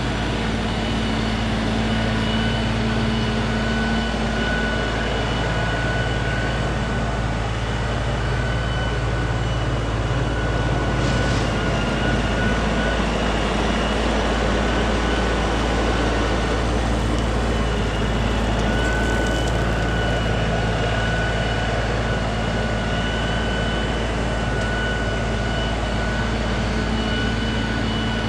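LS MT3 compact tractor's diesel engine running steadily under work, with a thin high whine that fades in and out over it.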